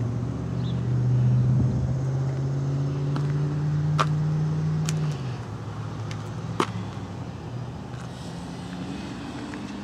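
A vehicle engine idling steadily. It drops to a lower, quieter hum about five seconds in, and there are two sharp clicks at about four and six and a half seconds.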